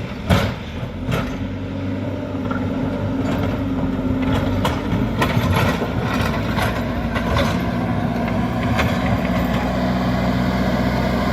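JCB backhoe loader's diesel engine running steadily, with repeated sharp metallic clanks and knocks from the working machine, the loudest just after the start.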